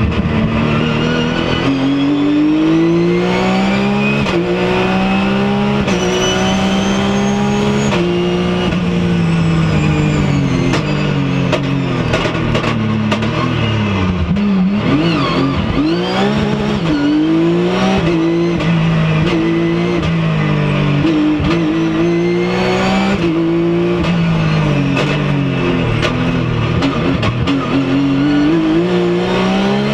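Porsche 911 GT3's flat-six engine heard from inside the cabin, driven hard: revs climb and fall back again and again through gear changes, with pitch dropping and wavering around the middle as the car brakes and downshifts.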